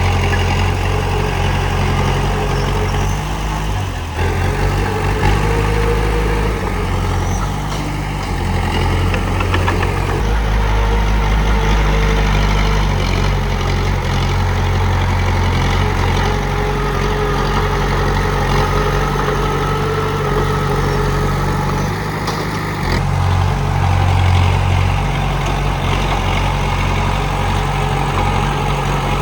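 Komatsu D31P bulldozer's diesel engine running steadily with a deep rumble. Its tone shifts abruptly a few times.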